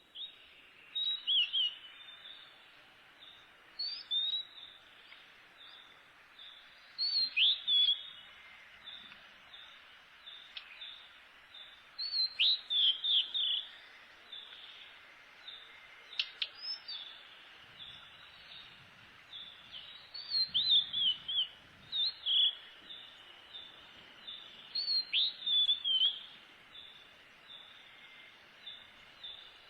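A bird singing short bursts of high, down-slurred chirps, a new phrase every few seconds, over a faint steady high-pitched hiss.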